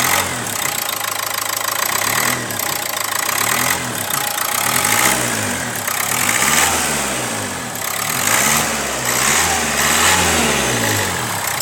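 Renault Duster's 1.5-litre four-cylinder dCi turbodiesel running and being revved repeatedly, its pitch rising and falling in a series of rev blips of a second or two each. It is running shortly after a cold start.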